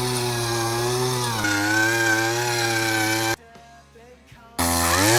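Small petrol engine running at a steady high speed. It stops abruptly about two-thirds of the way through, then comes back in near the end with the revs rising.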